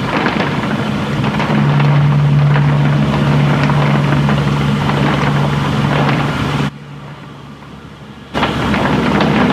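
Heavy rain falling, with a steady low hum running under it. The sound drops away abruptly for about a second and a half near the end, then the rain returns.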